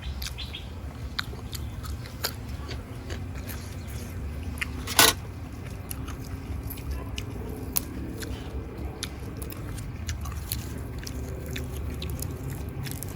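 Close-miked biting and chewing of raw beef with fresh vegetables, with many small wet mouth clicks throughout and one loud sharp click about five seconds in.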